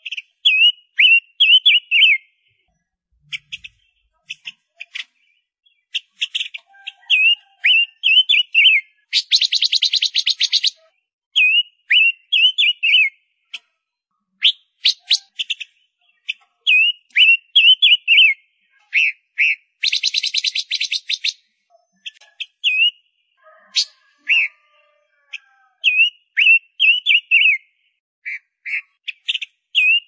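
A songbird calling in a pattern that repeats about every ten seconds. Each time, a harsh buzzy chatter about a second and a half long is followed by a run of short, clear, hooked whistled notes.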